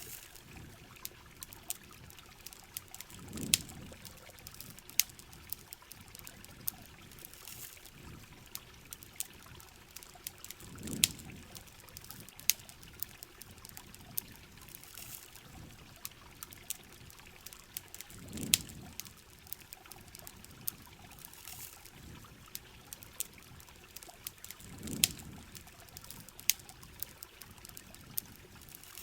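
Heavy rain hissing steadily, with sharp crackles and pops from a campfire scattered through it. A low rushing swell rises and fades about every seven seconds.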